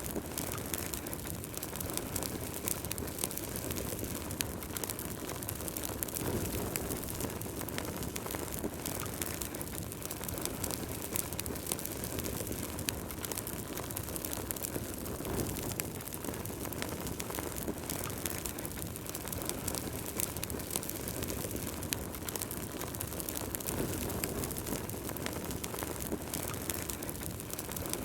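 Wood fire burning in a fireplace: a steady low rumble of flames with many irregular small crackles and pops from the burning logs.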